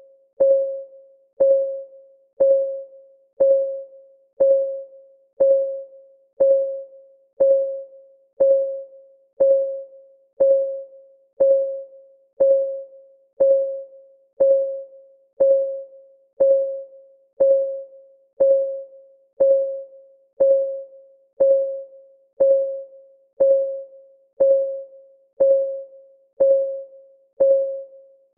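Countdown timer's clock ticking, one tick a second, each a sharp click with a short ringing tone that dies away within half a second.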